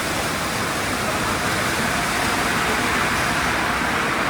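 Steady rushing noise of a Sonny's tunnel car wash running, growing slightly louder.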